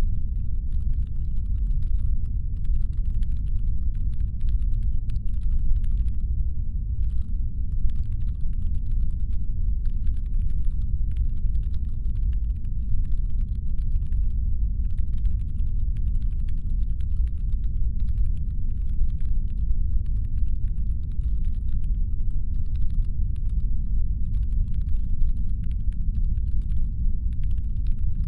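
Steady deep brown-noise rumble, a designed spaceship engine hum, with faint rapid irregular clicking layered above it that pauses briefly a couple of times.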